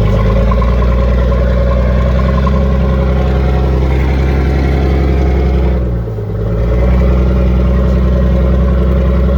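The 14-liter naturally aspirated Cummins inline-six diesel of an M923 5-ton military truck running steadily under way, heard from the cab. The engine sound dips briefly about six seconds in, then returns.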